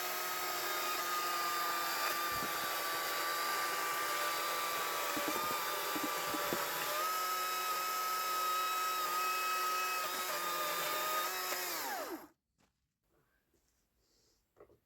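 Electric saw motor running steadily at high speed for about twelve seconds, with a few light knocks of wood in the middle, then switched off and winding down in pitch.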